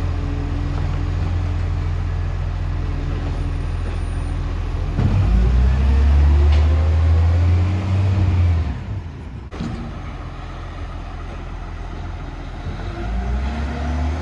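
Garbage truck's diesel engine idling, then revving up for about three and a half seconds before dropping back, with a sharp knock about nine and a half seconds in and the revs rising again near the end.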